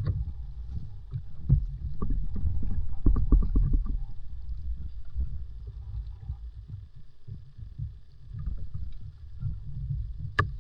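Water sloshing and splashing in a shallow muddy pond, with irregular small knocks and splashes, thickest in the first few seconds, over a low rumble of wind on the microphone. There is a sharp click near the end.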